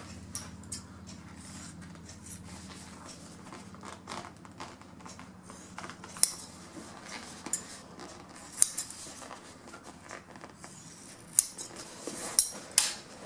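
Scissors making short relief cuts in an upholstery cover: a scattered series of sharp snips with soft handling rustle between them.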